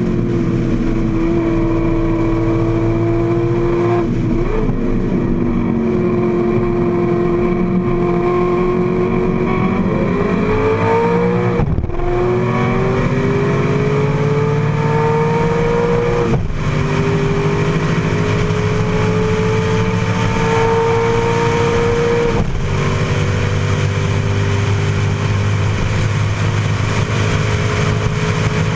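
AC Cobra's Ford V8 racing engine under hard acceleration, heard from the open cockpit. Its note climbs steadily and drops sharply three times in the second half as it shifts up, then climbs again.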